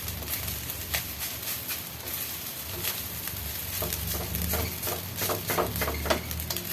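Fried rice sizzling in a hot pan while a spatula stirs it, scraping and clicking against the pan now and then.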